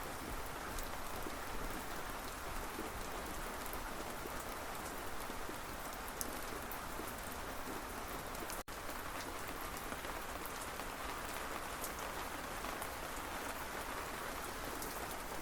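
Steady rain falling, with scattered sharp drop ticks. It cuts out for an instant just over halfway through.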